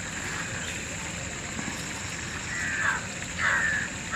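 Two short, harsh bird calls about two and a half and three and a half seconds in, each falling in pitch, over a steady outdoor background hiss.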